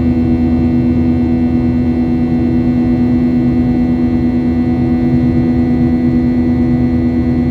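Steady drone of a Boeing 737-800's CFM56-7B turbofan engines heard inside the passenger cabin, a constant low rumble with a strong steady hum and fainter tones above it.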